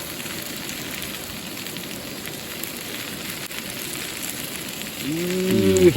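Steady sizzling and crackling of food frying in a campfire frying pan.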